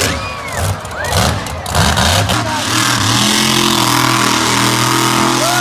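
Monster truck engine revving, its pitch swinging up and down, then holding steady at high revs for the last few seconds.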